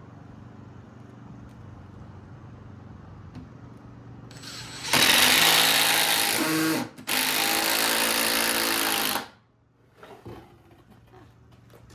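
Power drill running in two bursts of about two seconds each, with a brief stop between them, then cut off suddenly; a few faint knocks follow.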